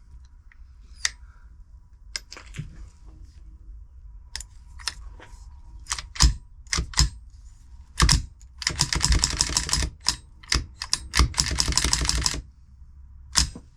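Metal clicks and rattles from a jammed semi-automatic .22 rifle's action being worked to clear a stuck, unextracted case. There are scattered sharp clacks, and two spells of fast rattling clicks, each lasting about a second and a half, in the second half.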